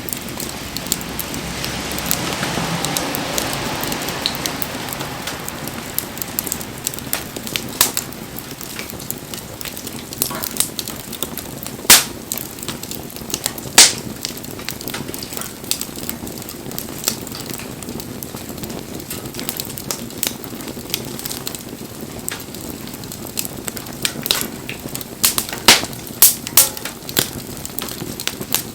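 Firewood burning in an open wood fire, crackling steadily with sharp pops; the loudest two come about 12 and 14 seconds in, with a run of pops near the end. In the first few seconds a rushing hiss swells and fades.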